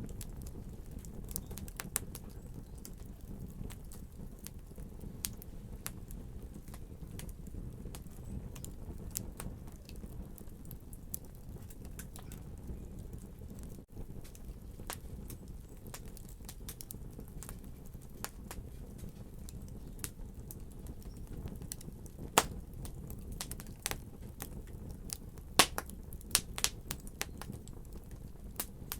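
Wood fire burning in a fireplace: a steady low rush of flame with irregular sharp crackles and pops. A few pops stand out louder, one about two-thirds of the way in and a cluster near the end.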